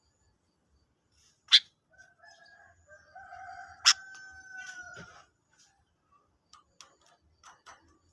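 Sooty-headed bulbul (kutilang) calling: two loud, very short sharp chirps about two seconds apart, with a longer steady call held for about two seconds between them, then a few softer quick chirps near the end.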